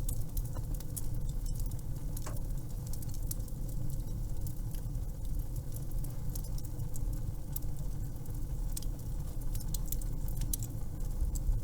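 Wood fire crackling in a fireplace: a steady low rumble with scattered sharp pops and snaps.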